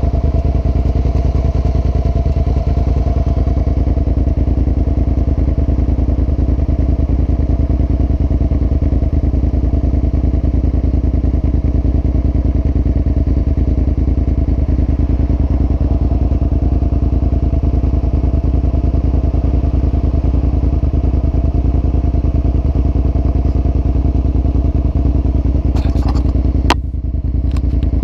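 Suzuki SV650's V-twin engine idling steadily at a standstill. Near the end comes a single sharp click.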